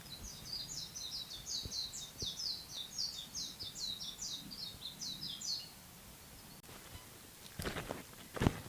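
A small songbird singing one long, fast run of high chirping notes for about five and a half seconds. Footsteps start near the end.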